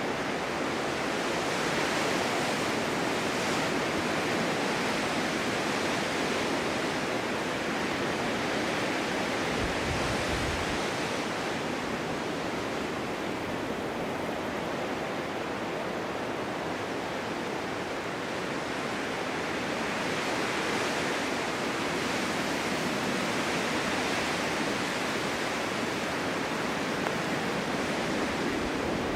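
Strong winter wind blowing steadily, swelling and easing slowly, with a brief low rumble of a gust about ten seconds in.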